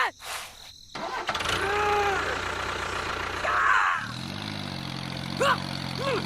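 A small engine, that of the mini tractor, cranks and starts, then runs at a steady idle from about four seconds in. A few short, high, arching calls sound over it.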